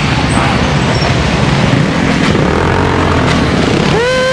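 Steady rush of wind and traffic noise while riding. Near the end a dirt bike engine is revved once, its note sweeping up and quickly back down.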